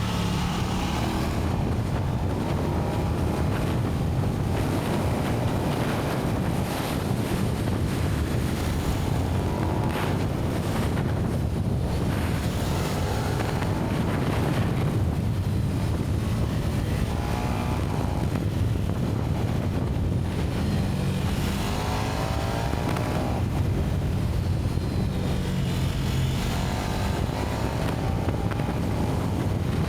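KTM 1290 Super Duke R's V-twin engine on its stock exhaust, running under way with the revs rising and falling a few times, with wind rushing over the microphone.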